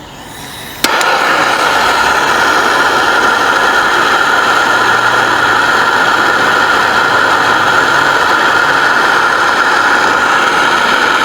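A steady, loud machine noise with a strong whine. It cuts in abruptly about a second in and runs on unchanged.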